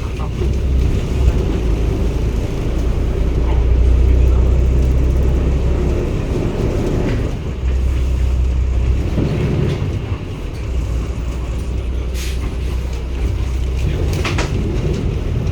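A Cummins ISB 280 PS Euro 6 diesel engine driving a 2016 New BS090 city bus with a low, steady drone. The drone swells and eases twice as the bus pulls away and slows, then levels off, with two brief sharp noises near the end.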